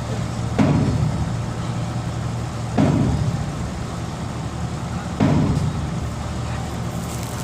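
Heavy diesel engine running steadily, with a sudden louder surge about every two and a half seconds, three times, each dying away over about a second.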